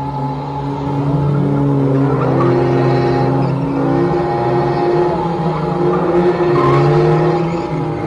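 Car engines revving hard with the pitch climbing and dropping, more than one engine at once, over a haze of tyre noise from cars sliding.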